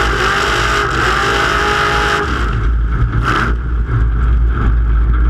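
Truck engine running hard in a snow race, with a loud rushing noise over it. The rushing drops away about two seconds in and comes back briefly a second later, while the low engine rumble carries on.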